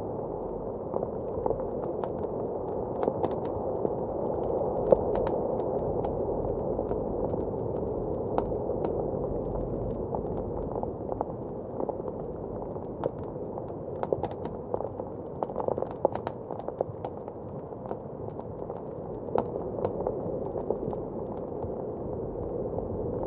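Fireplace crackling with irregular sharp pops, over a steady, muffled rush of blizzard wind heard from indoors.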